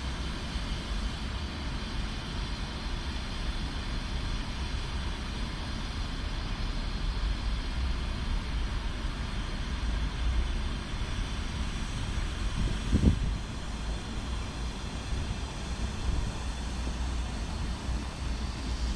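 Steady low rumble of a train running, with a brief knock about two-thirds of the way through.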